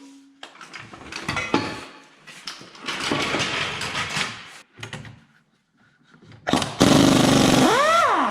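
Impact wrench hammering on a bolt in three bursts, the last one the loudest. Near the end its motor whines up and then falls in pitch as it winds down.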